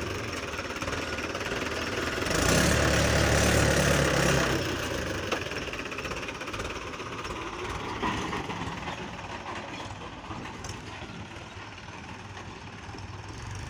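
Tractor engine running, louder for about two seconds from a couple of seconds in, then easing off and gradually fading.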